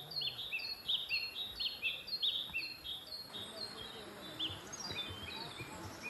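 Birds calling: a regular series of short, high chirps, about two a second, over steady outdoor background noise. The chirps grow fainter after about three seconds.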